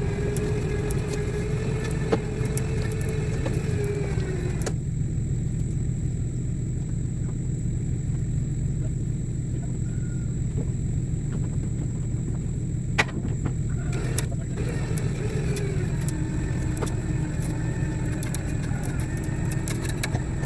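Electric winch motor whining under load as it pulls the backhoe, running for about five seconds, stopping, then pulling again from about fourteen seconds in at a slightly lower, sagging pitch. A steady engine rumble runs underneath, with a sharp click in the pause.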